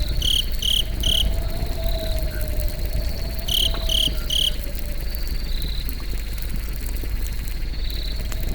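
Crickets chirping: three short chirps near the start and three more about three and a half seconds in, with fainter chirps in between. Underneath is a steady low rumble and a slowly wavering hum.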